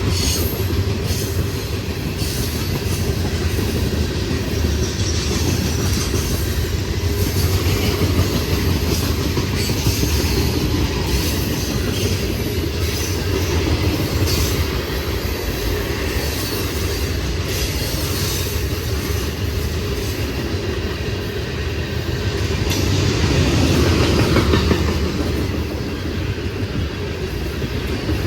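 A train rolling past on the rails, its wheels clattering steadily over the track, growing louder for a couple of seconds near the end.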